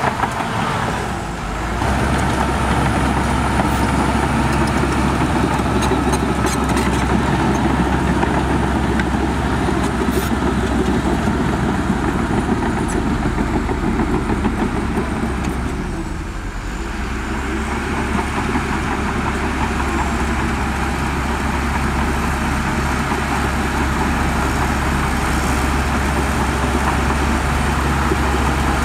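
Heavy diesel engine of earthmoving machinery running steadily under load, with a brief drop in engine speed about a second in and another dip midway through before it picks up again.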